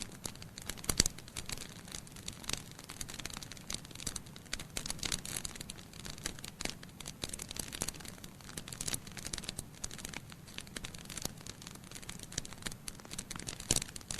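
Wood fire burning in a fireplace: logs crackling with a steady stream of irregular pops and snaps over a low hiss, with a sharp loud pop about a second in and another near the end.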